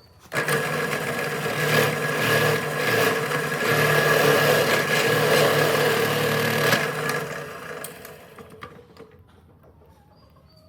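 A woodworking power tool's electric motor switches on suddenly, runs at a steady pitch for about six and a half seconds, then is switched off and winds down over a second or so.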